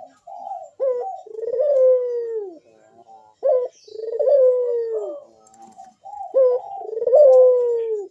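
Barbary dove (burung puter) cooing in breeding condition: three repeated calls about three seconds apart, each a short sharp note followed by a long falling coo.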